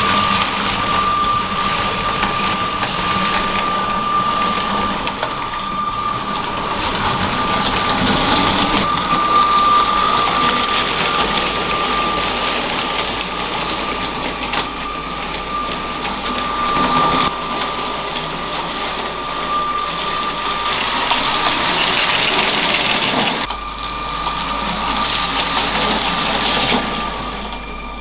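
LEGO train running on plastic track: a small electric motor's steady high whine over the rattle of wheels, changing abruptly twice as shots are cut together.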